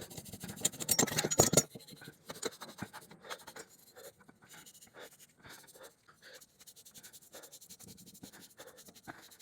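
Gray abrasive scuff pad loaded with BRASSO polish scrubbing a stainless steel motorcycle muffler. The strokes are loud and dense for about the first second and a half, then go on as lighter, quieter repeated strokes.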